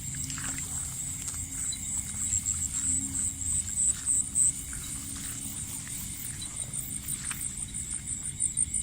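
Night insects chirring: a steady, high-pitched, rapidly pulsing trill that runs on without a break, with faint scattered clicks and rustles beneath it.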